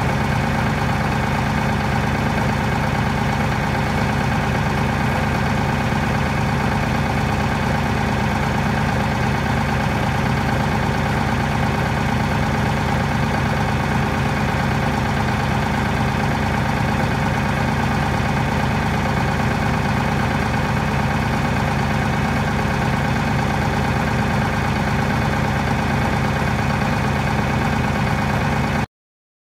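Tractor engine running at a steady speed, unchanging throughout, and cutting off abruptly near the end.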